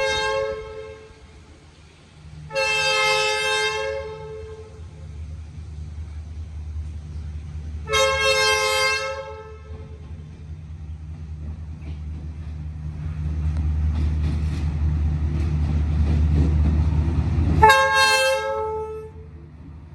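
Vietnamese passenger train's diesel locomotive sounding its two-note horn four times as it departs: a short blast at the start, a longer one about two and a half seconds in, another about eight seconds in, and a last one near the end. Between the later blasts the locomotive's engine rumble builds as it pulls away.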